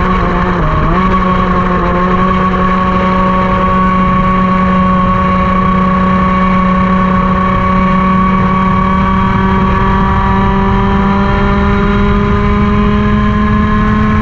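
Racing kart engine at high revs, close to the microphone. Its pitch dips briefly just under a second in, then climbs slowly and steadily as the kart keeps accelerating under full throttle.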